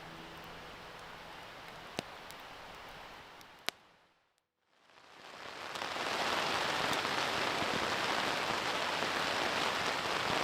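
Steady rain, fading in after a short gap of silence about five seconds in. Before the gap, a quieter hiss with a couple of sharp clicks.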